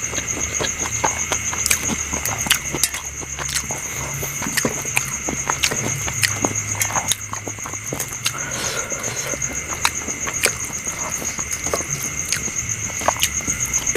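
Close-up eating sounds: chewing and crunching with many irregular small clicks and smacks. Behind them runs a steady, pulsing, high insect chirring.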